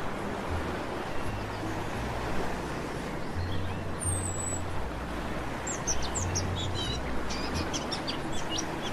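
Sea surf washing steadily while birds chirp in short high calls, a few about four seconds in and a busier cluster near the end.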